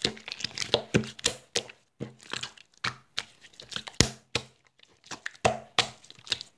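Hands squeezing and stretching a lotion slime, making irregular sticky clicks and crackling pops, several a second.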